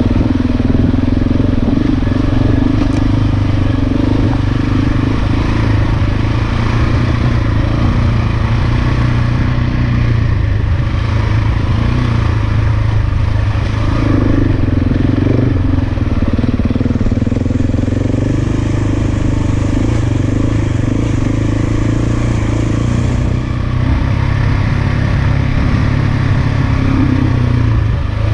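Big single-cylinder dual-sport motorcycle engine running steadily while riding along.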